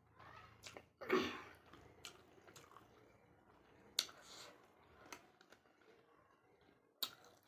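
A person chewing and eating spicy chicken with rice close to the microphone, with wet mouth smacks and sharp clicks every second or so; the loudest comes about a second in.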